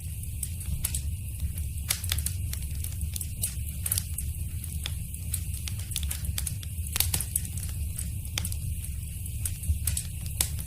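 Wood fire in a fireplace crackling and popping, with irregular sharp snaps several times a second over a low steady rumble of the flames; one louder pop about seven seconds in.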